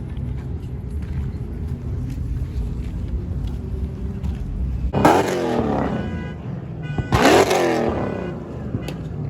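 Car engine idling with a low rumble, then revved hard twice, about five and seven seconds in, each rev rising sharply and falling back.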